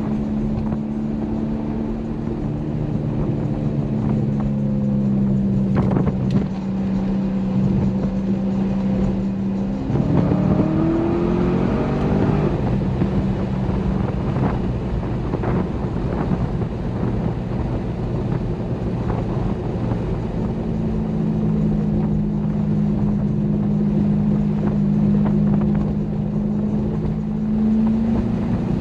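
Corvette C6 Grand Sport's 6.2-litre V8 and exhaust under way, holding a steady drone with road and wind noise, heard from the trunk. About ten seconds in the engine note rises as the car accelerates, then settles back to a steady note and starts to climb again near the end.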